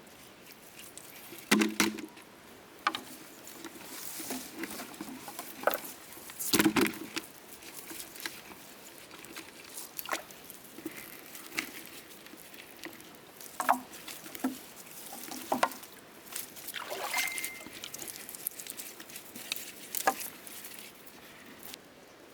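Irregular scattered knocks and clicks with some rustling and light splashy patter, like hands and tools at work; the loudest knocks come about a second and a half in and about six and a half seconds in. A brief high squeak comes in the second half.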